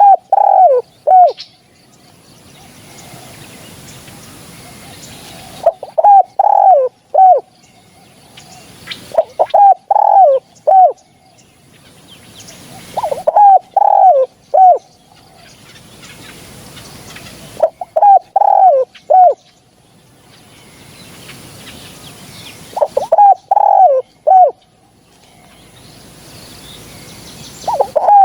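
Spotted dove cooing: a short phrase of three or four coos, repeated about every four to five seconds.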